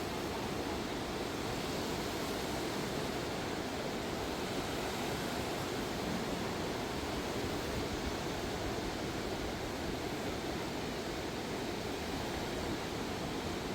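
Steady, unbroken rush of a swollen, flooding river.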